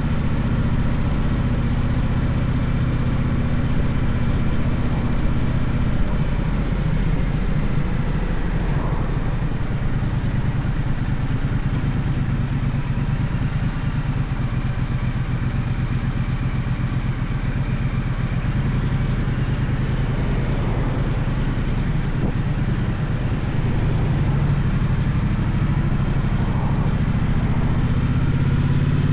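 Gaokin GK1200 motorcycle engine running under way, its note dropping lower through the middle and picking up again near the end.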